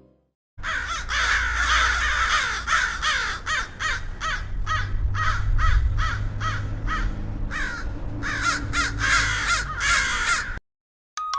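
Crows cawing over and over in a dense run of harsh calls over a low rumble, played as an edited-in sound effect. It starts about half a second in and cuts off abruptly near the end.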